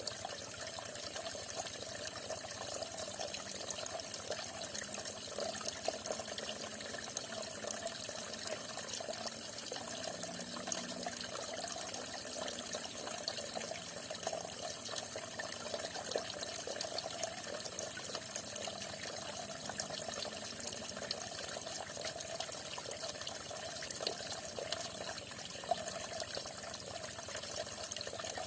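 Falling water splashing steadily: a continuous even rush with a dense patter of small splashes.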